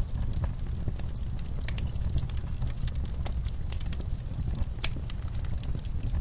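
Wood fire burning in a fireplace: a steady low rumble of flames with irregular sharp crackles and pops, the loudest pop a little under five seconds in.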